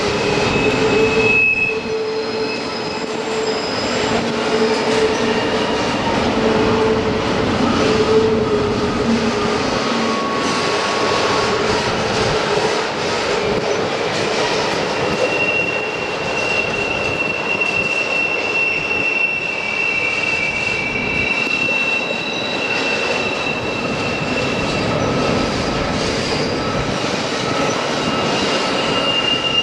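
Train rolling along the rails, its wheels squealing in long, held high-pitched tones over a steady rumble.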